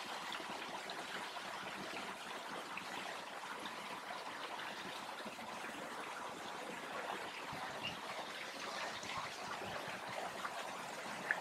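A small creek trickling and splashing steadily, with a couple of faint clicks near the end.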